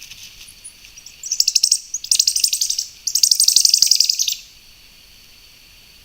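A bird calling in three bursts of rapid, high-pitched chattering trills, the last and longest ending about four and a half seconds in.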